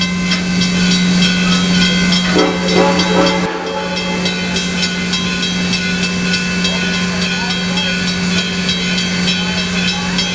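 Steam locomotive hissing steam, with a steady tone running underneath and a rapid, even ticking; the sound changes abruptly about three and a half seconds in.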